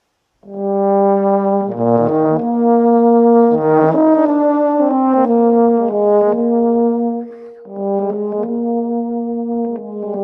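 Brass ensemble playing slow, sustained chords that come in about half a second in, the notes moving in steps, with a brief drop in level a little past seven seconds.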